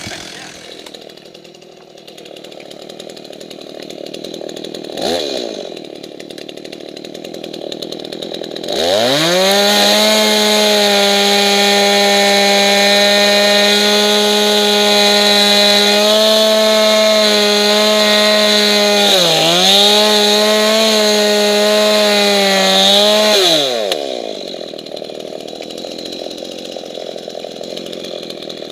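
Chainsaw engine opened up to full throttle about nine seconds in and held at a high, steady pitch for about fifteen seconds, with one brief dip, then throttled back down. Before and after, it runs much quieter.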